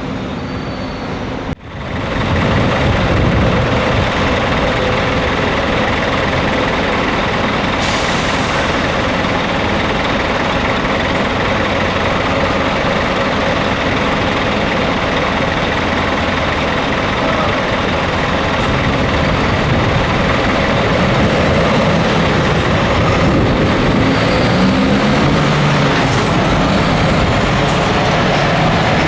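Scania truck driving, its engine and road noise running loud and steady. A brief sudden dropout comes about a second and a half in.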